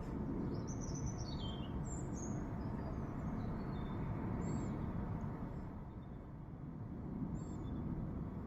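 Wild birds singing: a quick run of high chirps and falling notes in the first couple of seconds, then single short calls about halfway through and near the end, over a steady low background rumble.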